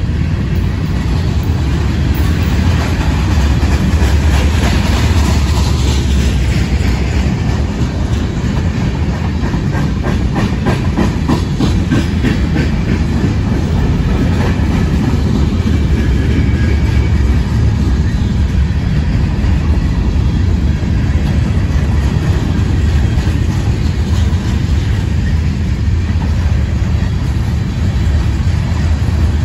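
Freight cars of a long mixed freight train rolling past close by: a steady rumble of steel wheels on rail, with clicking and clatter as the wheels cross rail joints, a run of clicks about ten seconds in.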